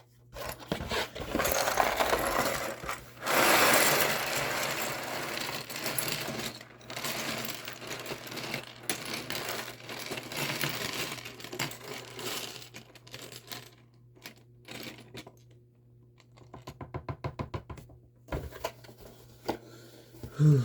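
Loose Lego plastic pieces being handled: rustling and clattering with many small clicks, loudest in the first few seconds, and a quick run of clicks a few seconds before the end.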